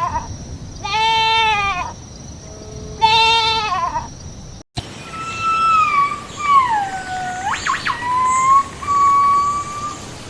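Goat bleating: two long wavering bleats and the end of another in the first four seconds. After a sudden cut, a different thin, whistle-like animal call glides down, shoots up and holds level.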